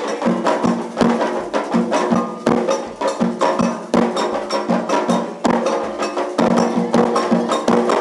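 Candomblé ritual drumming: atabaque hand drums and a struck bell playing a steady rhythm of sharp, evenly spaced strokes.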